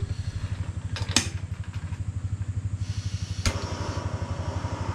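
A steady low motor-like throb pulsing about a dozen times a second, like an engine idling, with a sharp click about a second in and another about three and a half seconds in.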